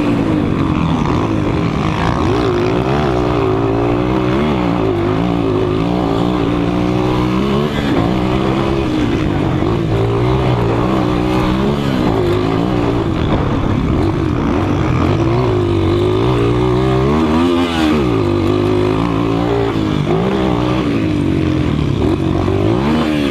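200 cc motocross bike engines racing, the pitch rising and falling over and over as the riders rev, shift and back off through the track.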